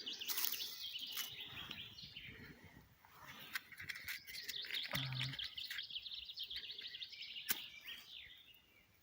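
A songbird singing fast runs of repeated high chirps in two bouts, with a short gap about 3 seconds in. A few sharp clicks are mixed in, the loudest about 7.5 seconds in.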